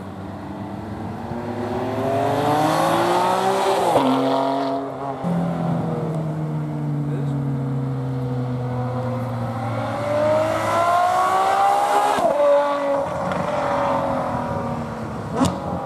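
Ferrari V12 engine accelerating hard, its pitch rising, with a sudden drop at an upshift about four seconds in. It runs steadier and slowly falls, then climbs again to another sharp upshift about twelve seconds in. A brief sharp crack comes near the end.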